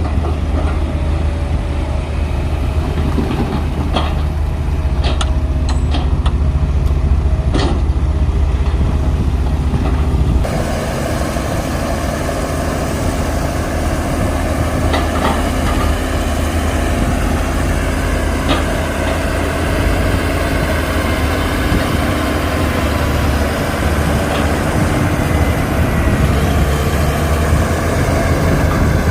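Heavy diesel earthmoving machinery running steadily, with a few sharp metallic clanks in the first ten seconds. The sound changes abruptly about ten seconds in and then carries on as a steady engine drone.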